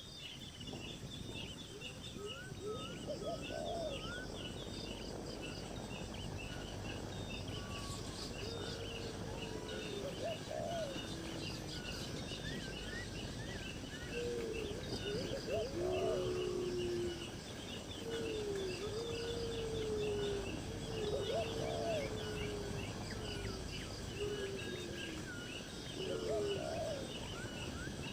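Several birds chirping and calling over a steady background hiss, with quick high chirps throughout and a lower, gliding call repeating every few seconds.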